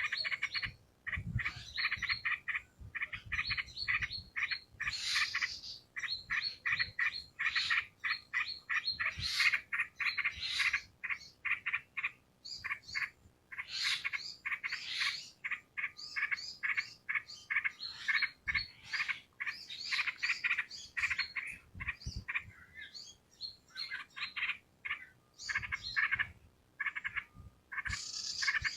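Yellow-vented bulbul singing vigorously: a fast run of bubbly chattering notes, several a second, broken by a few short pauses.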